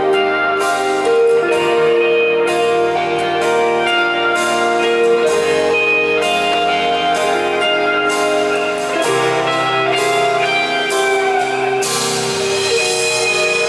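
Live pop-rock band playing: electric guitars, bass and drum kit, loud and steady.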